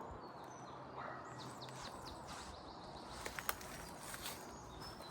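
Quiet woodland background with a small bird chirping, a quick run of short high notes about a second in and a few single chirps. A couple of sharp clicks, like twigs cracking, come about three and a half seconds in.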